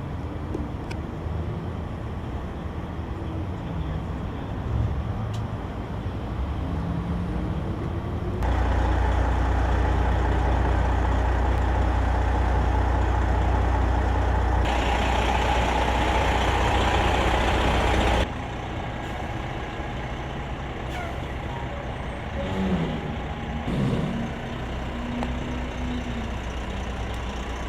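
Heavy military truck diesel engine running with a steady low drone, with a much louder stretch in the middle that starts and stops abruptly.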